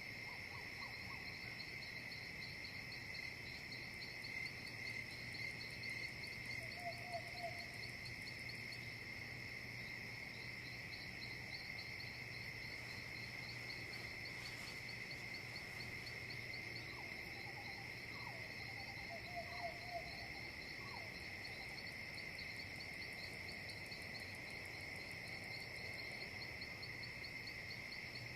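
Insect chorus ambience: steady high trilling with fast, evenly pulsed chirps. A few short, lower animal calls come now and then, once about a quarter of the way in and several times past the middle.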